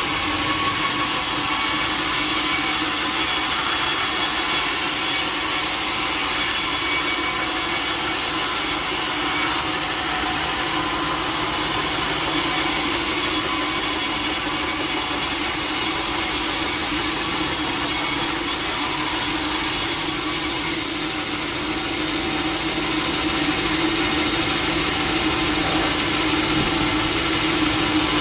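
Sawmill blade running steadily through a log, a continuous even cutting noise.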